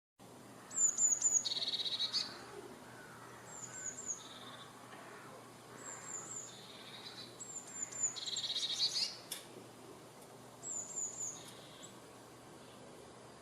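A songbird singing the same short phrase over and over, about every two seconds: a quick run of three or four high, thin notes, then a lower buzzy trill.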